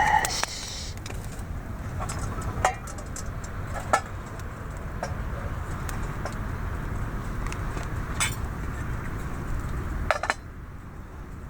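Scattered light metallic clinks of cookware, a pot and its lid, a handful of separate knocks, over a steady low background rush that drops off sharply about ten seconds in.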